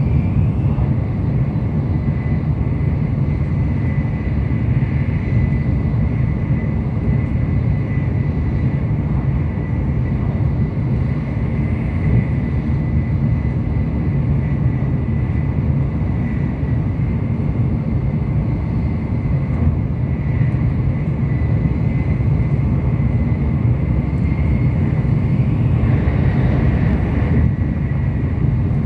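Tokaido Shinkansen train running at speed, heard from inside the passenger cabin: a steady low rumble with a thin, steady high whine over it.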